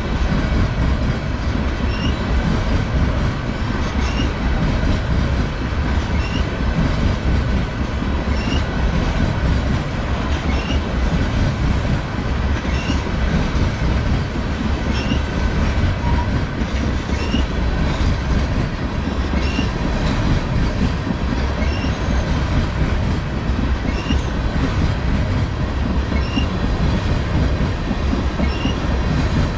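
Railroad tank cars of a long freight train rolling past at close range: a steady heavy rumble of steel wheels on rail, with short faint high squeals recurring about every two seconds.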